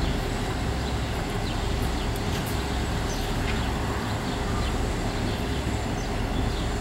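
Chicago North Shore and Milwaukee Railroad electric interurban train running past, a steady low rumble from the cars on the track. Birds chirp a few times over it.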